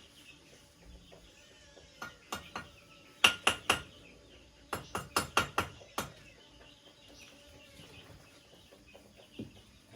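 About a dozen sharp knocks of a tool striking bamboo, in three quick runs between about two and six seconds in. Chickens cluck faintly throughout.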